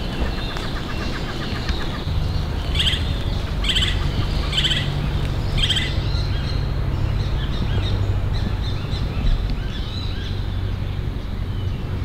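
Wild birds calling: a quick trill at the start, then four sharp call notes about a second apart, with fainter chirps after, over a steady low rumble.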